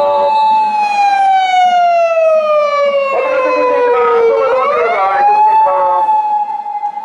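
Emergency vehicle's wailing siren: it holds a high note, slides slowly down for about four seconds, then swings quickly back up, growing fainter near the end.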